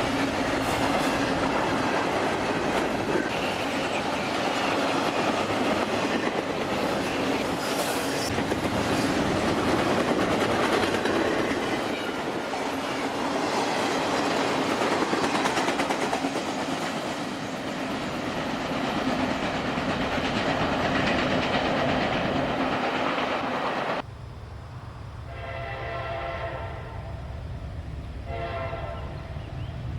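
A train rolling past with steady wheel clatter on the rails. After a sudden cut, a locomotive air horn sounds three blasts, the first the longest.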